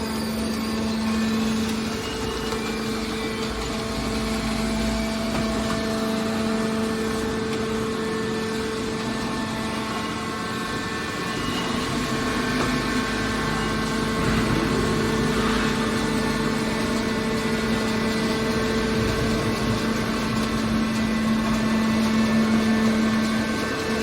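Waste car baler running, its power unit giving a steady, even drone with a constant pitched hum.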